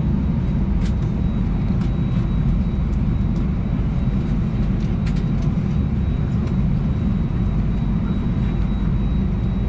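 Steady low cabin rumble inside an Airbus A320 as it is pushed back from the gate, with a few faint clicks.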